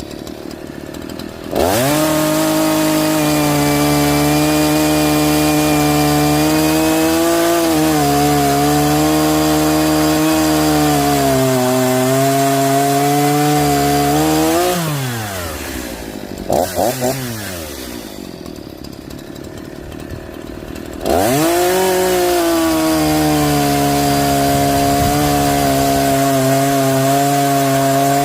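Echo CS-4910 two-stroke chainsaw. It goes from idle to full throttle, with the pitch sagging under load as it cuts wood, and drops back to idle about halfway through. It gives three quick throttle blips, then runs up to full throttle again near the end.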